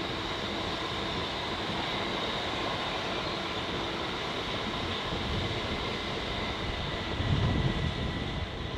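Railway locomotive running past, a steady rumble with faint high whining tones; about seven seconds in, a surge of low rumble rises over it.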